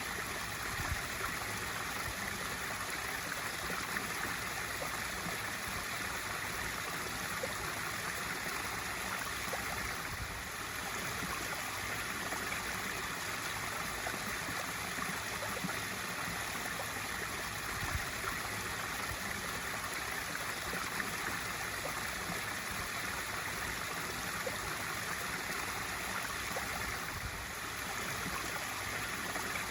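Swimming pool waterfall feature pouring steadily into the pool, an even, unbroken rush and splash of falling water.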